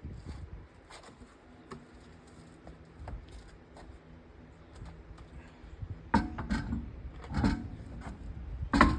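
Small metallic clicks and rubbing of hands-on work at a car wheel, with three louder knocks about six, seven and a half, and nearly nine seconds in.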